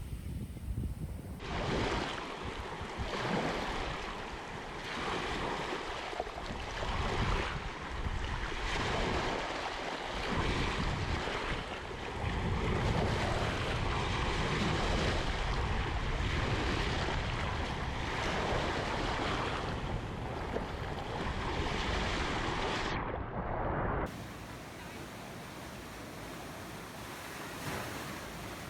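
Ocean surf breaking and washing in, swelling and ebbing every few seconds, with wind rumbling on the microphone. Near the end it cuts abruptly to a quieter, steadier wash.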